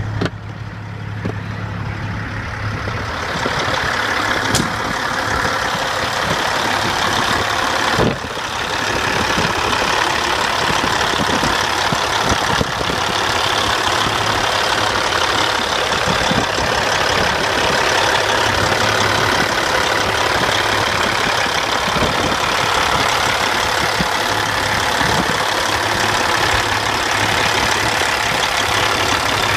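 Caterpillar C15 diesel engine of a Peterbilt 379 highway tractor idling steadily. It grows louder over the first few seconds, and a few sharp knocks sound over it, the loudest about eight seconds in.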